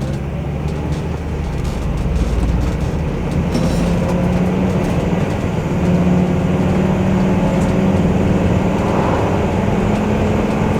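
Class C motorhome's engine and road noise heard from inside the cab as it pulls out and picks up speed. The engine hum grows louder and climbs slightly over the first several seconds, then holds steady.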